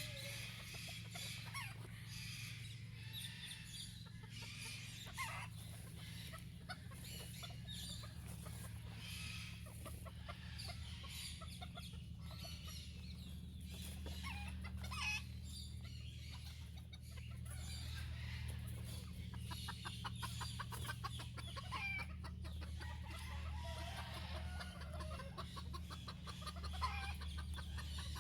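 Many birds calling and chattering, short repeated calls with clicks, over a steady low hum.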